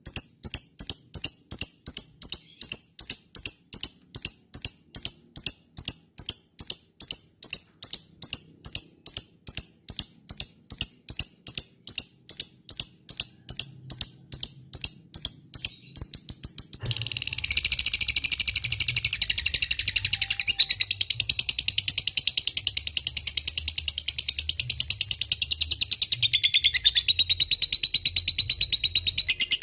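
Lovebird calling: a steady series of sharp, high chirps about three a second, then, past halfway, a long fast unbroken chatter, the lovebird's ngekek, with a brief break near the end.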